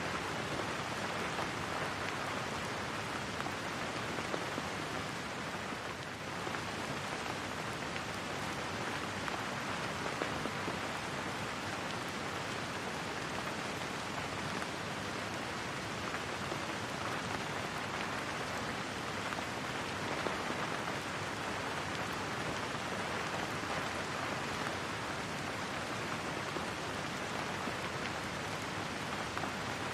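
Steady rain falling, an even hiss of drops on surfaces with no breaks.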